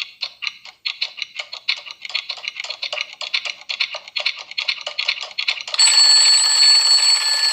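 A clock ticking quickly, about eight ticks a second, then about six seconds in an alarm-clock bell starts ringing steadily.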